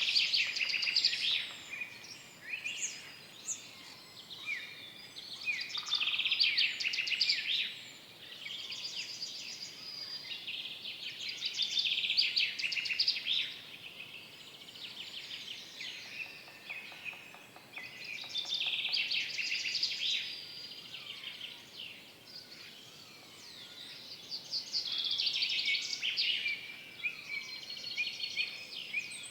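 Forest birdsong: a songbird repeats a short trilled song phrase about every six seconds, with other birds chirping more faintly in between over a soft background hiss.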